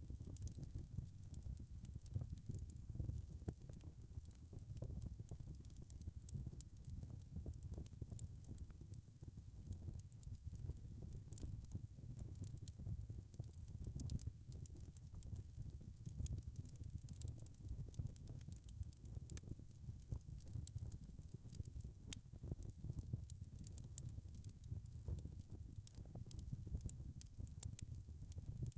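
Wood fire crackling: many small sharp pops scattered at random over a steady low rumble.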